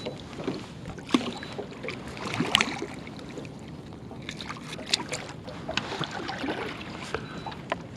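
Water splashing and scattered knocks against a boat, over steady outdoor background noise, as a caught catfish is handled and released over the side.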